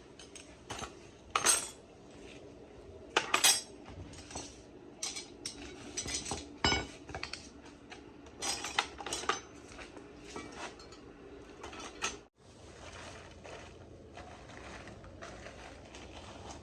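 Irregular metallic clinks and clatters, like hand tools or small metal parts being handled and set down, loudest and most frequent in the first half; the sound briefly cuts out a little after twelve seconds.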